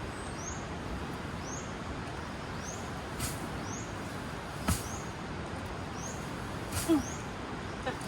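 A bird repeating a short, high, rising chirp about once a second over a steady outdoor hiss, with a few sharp knocks, the loudest about halfway through and another near the end.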